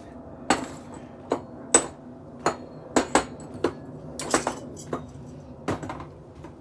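Heavy decking lights, stainless steel tops on machined aluminium bodies, being moved and set down: a dozen or so sharp metal clinks and knocks at uneven intervals.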